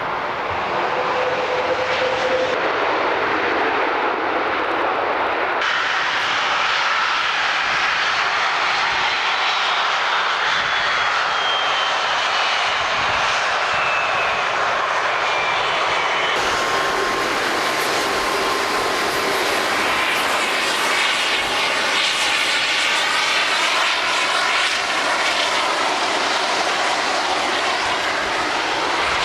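Airbus A330's two Rolls-Royce Trent 772B turbofan engines on landing approach, passing close by: a steady jet roar with a high whine that slides down in pitch around halfway through, then a wavering, swirling sound in the last third as the aircraft goes past.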